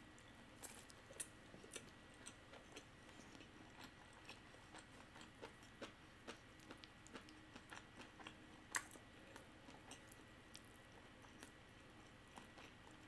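Faint close-up chewing of a mouthful of seaweed-wrapped sushi roll: scattered soft mouth clicks and small crunches, one a little louder near the nine-second mark.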